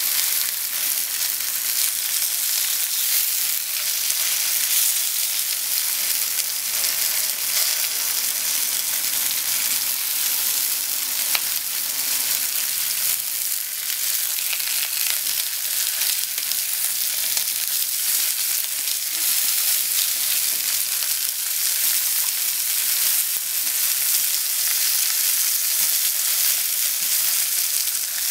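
Thin slices of pork and sliced onion sizzling steadily as they fry in oil in a non-stick frying pan, with occasional light taps and scrapes of chopsticks turning them.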